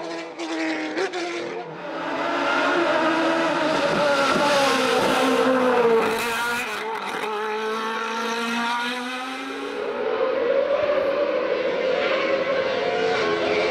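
Racing car engine at full attack on a hillclimb, its note climbing and dropping several times as it shifts gears and brakes for bends.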